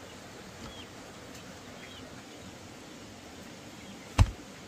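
A few faint, short, high bird chirps over a steady outdoor background, with one sharp thump about four seconds in.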